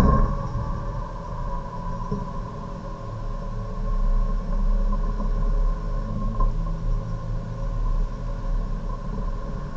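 Hyundai Avante race car heard from inside the cabin, its engine pulling hard at full throttle with a rumble of road and wind noise, shifting up from third to fourth gear partway through.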